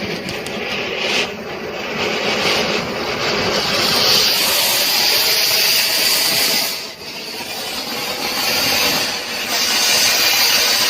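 Diwali firecracker burning on the ground and spraying sparks: a continuous rushing hiss that swells and dips, with a brief drop about seven seconds in.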